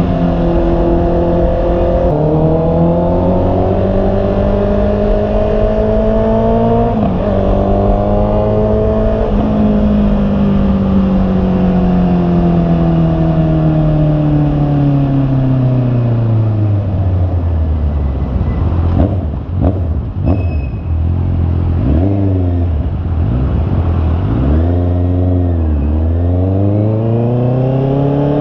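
Honda CB650R's inline-four engine under way, its pitch climbing and dropping suddenly at each gear change, then falling slowly as the bike slows. There are a few quick dips and blips about two-thirds of the way through, and the engine rises again near the end.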